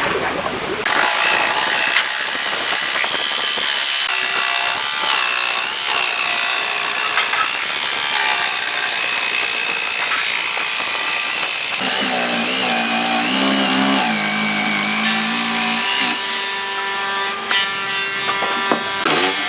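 A handheld power tool working on wood, starting abruptly about a second in and running with a high whine that wavers as the load changes. Around twelve seconds in a lower hum joins for a few seconds.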